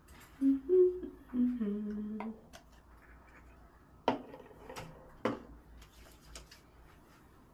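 A person's voice humming a few short notes, followed by three light knocks or clatters a second or so apart.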